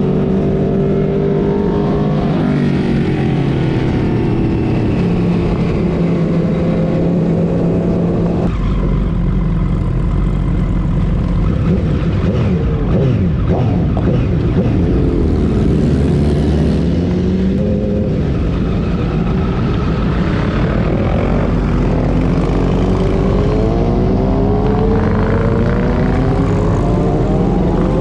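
Motorcycle engines running with steady wind noise, their pitch rising and falling again and again as the bikes speed up and slow down. The sound changes abruptly about a third of the way in.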